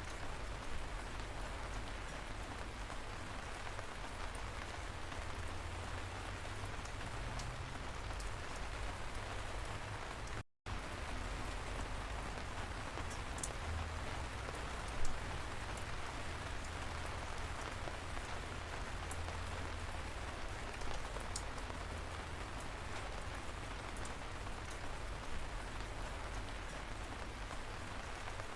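Steady light rain falling, with scattered sharp ticks of single drops striking a surface and one louder drop tick about halfway through. The sound cuts out completely for a split second about a third of the way in.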